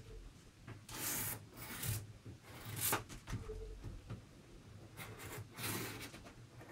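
A pencil tracing around a paper template on cardboard: a series of short, irregular scratching strokes of the lead against the card.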